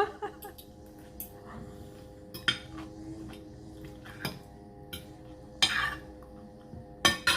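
Spoon and fork clinking and scraping against a plate in scattered, irregular clicks while eating, over a faint steady hum.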